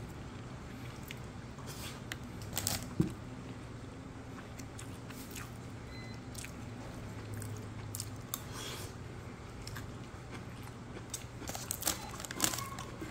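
A person chewing and eating grilled chicken leg and rice close to the microphone, with scattered short clicks and crunches.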